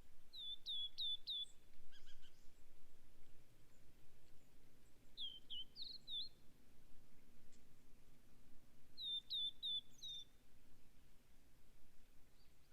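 A small songbird singing a short phrase of four quick, down-slurred whistled notes, three times about four seconds apart. Fainter calls of another bird come in between, over a low, steady background hiss.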